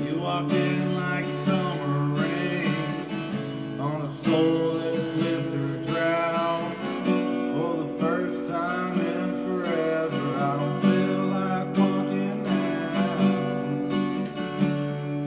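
Acoustic guitar playing: strummed chords with a melody line over them.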